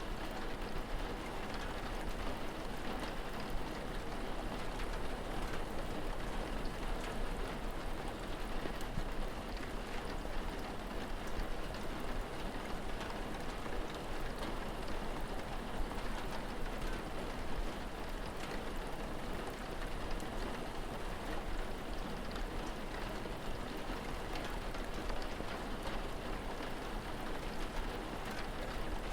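Steady rain falling, with scattered drop ticks over an even hiss and a low steady rumble underneath.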